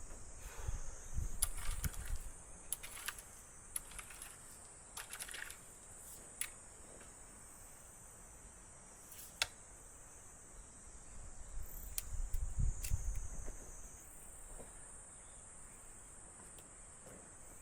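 Insects trilling steadily in a high, continuous hum, with scattered sharp clicks and a few low knocks and rumbles from handling.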